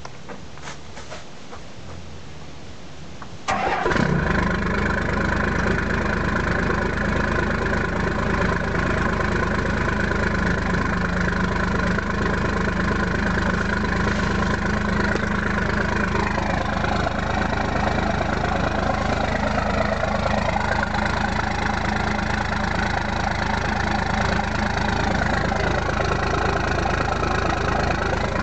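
1993 Dodge Ram D250's 5.9-litre Cummins inline-six turbo diesel, straight-piped through a 4-inch exhaust, catches suddenly about three and a half seconds in and settles into a steady idle. The idle sits a little low, which the owner puts down to the idle being adjusted as low as it will go after the fuel was turned up in the injection pump.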